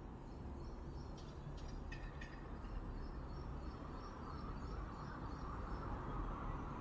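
Outdoor ambience: a steady low rumble with a few faint, short high chirps from small birds or insects, and a hissing noise that grows a little louder after about four seconds.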